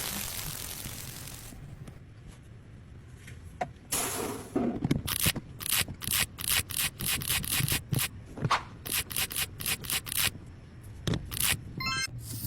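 A hiss for the first second and a half, then a run of quick, short scraping strokes, about three a second, as of something being rubbed or scraped by hand.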